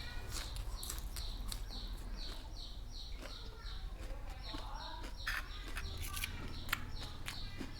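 A bird chirping over and over, a short falling high note about three times a second, with sharp clicks and crunches of eating and cutlery on top.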